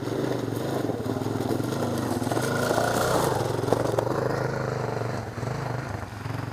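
A vehicle engine running under load, revving up over the first few seconds and then easing off.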